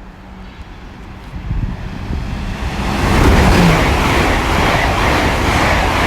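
Great Western Railway passenger train passing through the station towards London Paddington. Its rumble and rushing noise build from about a second and a half in and stay loud from about halfway.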